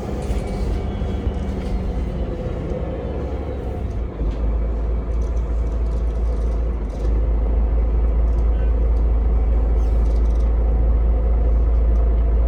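Ride on a route-42 public-transport vehicle in motion: a steady low rumble of running gear and road noise. It grows stronger about four seconds in and again about seven seconds in.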